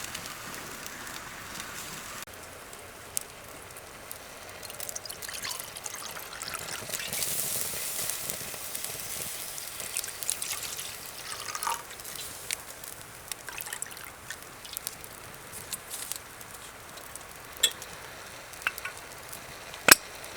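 A drink being poured out, with the hiss of liquid strongest partway through, over the crackle of a campfire; a few sharp clicks near the end.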